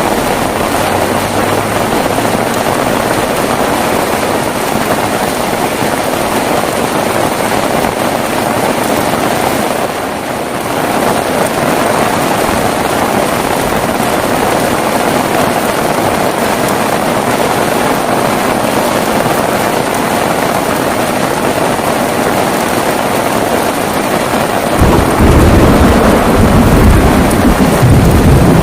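Heavy rain falling steadily. Near the end a loud, low rumble of thunder sets in suddenly and carries on.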